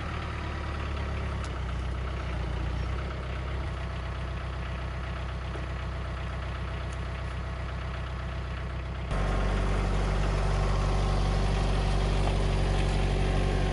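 An engine running steadily at an even speed, with a sudden step up in loudness about nine seconds in.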